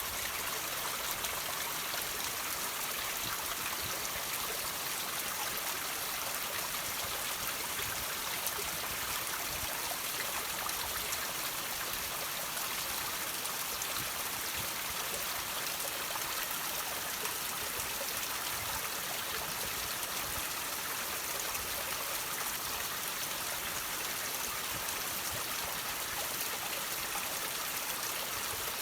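Water running and dripping off rocks, a steady trickle with no pauses or changes.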